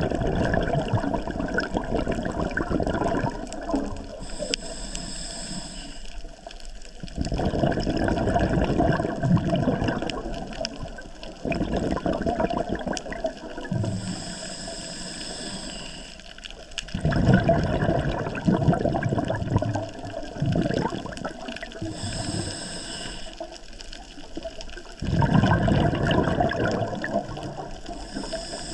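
Scuba diver breathing through a regulator underwater. Exhaled bubbles gurgle out in four loud bursts, about every eight seconds. Between the bursts comes a short, high hiss of air drawn through the regulator on each inhale.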